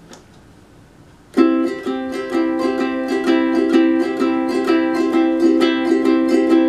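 Ukulele strummed in chords, starting suddenly about a second and a half in after a faint click, then keeping up a steady strumming rhythm of about three strokes a second.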